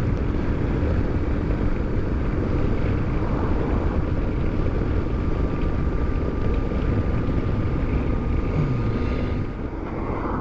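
Motorcycle engine and rushing air while riding at road speed, heard from on the bike. The noise eases a little near the end.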